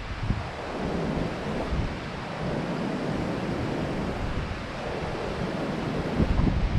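Strong wind buffeting the microphone: a steady rushing noise with gusty low rumbles.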